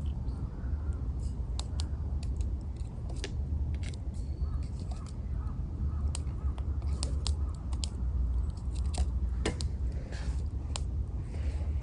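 Wood campfire crackling, with sharp irregular pops over a steady low rumble.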